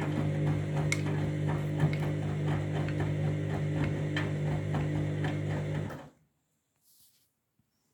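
Candy washing machine on a main wash, its motor humming steadily as it turns the drum, with a regular light ticking of about four a second. The sound cuts off suddenly about six seconds in.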